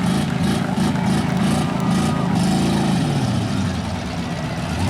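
Stock demolition derby cars' engines revving, their pitch rising and falling several times.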